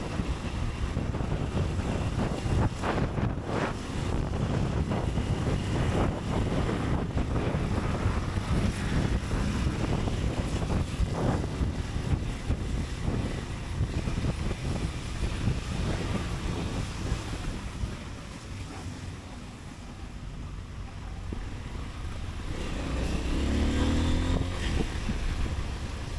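Motorcycle riding through city traffic: low engine rumble with wind buffeting the microphone. It eases off about two-thirds of the way through, then an engine rises in pitch as it accelerates near the end.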